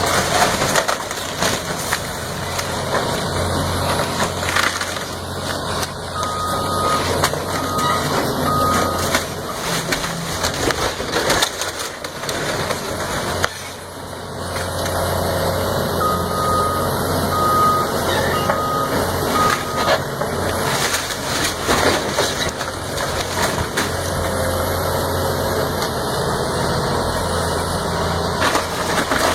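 Heavy machinery working: an engine running steadily under frequent knocks and cracks of material being broken. A reversing alarm beeps in two short runs, about a fifth of the way in and again just past the middle.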